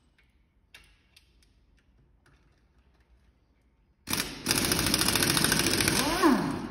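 A few faint clicks, then about four seconds in a loud, fast rattling of an air-powered wrench starts, undoing fasteners on the stripped-down engine. Its pitch dips and comes back up briefly near the end.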